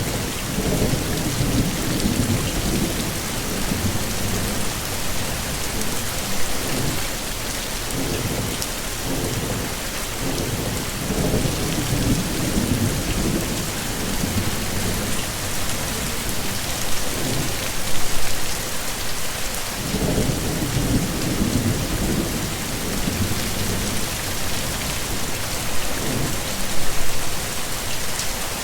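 Heavy rain falling steadily, with low rolling thunder rumbles that swell and fade several times.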